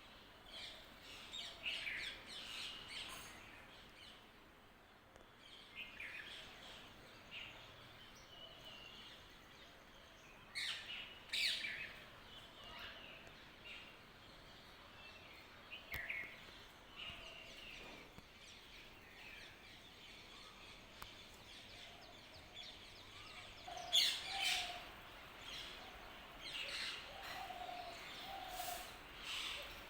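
Several wild birds chirping and calling: short high chirps scattered throughout, with louder bursts about a third of the way in and again near the end. In the last few seconds a lower call of repeated short notes joins in.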